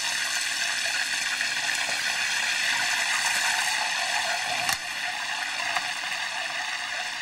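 Floured cod fillets frying in a pan of hot oil: a steady sizzle and bubbling. After a short click about two-thirds through, it goes on a little quieter.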